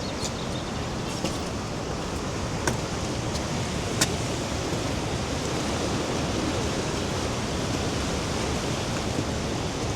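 Steady rushing of the Rhine Falls' water, a dense even noise, with two sharp clicks about three and four seconds in.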